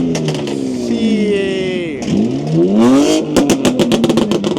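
Car engine revving: its note falls away, climbs sharply about two seconds in, then gives way to a rapid string of exhaust pops and bangs.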